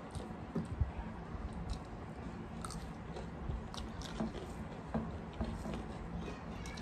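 Close-up eating sounds: chewing and biting, with crunchy bites of raw cucumber, and fingers mixing wet rice and curry. Short crisp snaps stand out here and there over the chewing.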